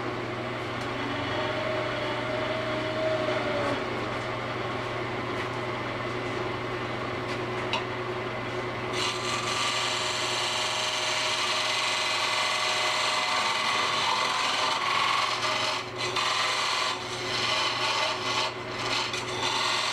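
A wood lathe running with its motor humming steadily while a turning tool cuts the spinning wooden candlestick blank down to a caliper-set diameter. The cutting gets louder about nine seconds in and comes and goes in short strokes near the end.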